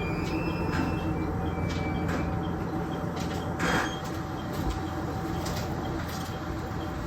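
KiHa 110 diesel railcar drawing to a stop, heard from the cab: a steady diesel engine hum, with faint high brake squeal fading out in the first two seconds and a short hiss about halfway through.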